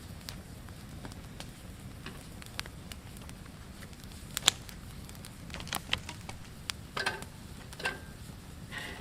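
Scattered sharp clicks and crackles over a steady low rumble, with one louder click about halfway and two short squeaks toward the end.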